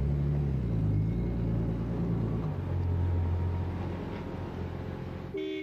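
A 1936 BMW 326's six-cylinder engine running as the cabriolet drives up. Its note drops about two and a half seconds in and fades as it slows to a stop. A car horn toots near the end.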